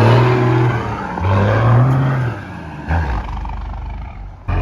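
5.9 12-valve Cummins turbo diesel in a 1993 Dodge Ram pickup, revving as the truck pulls away in gear. The pitch climbs twice with a dip between, then the engine eases off to a lower, quieter run after a knock about three seconds in.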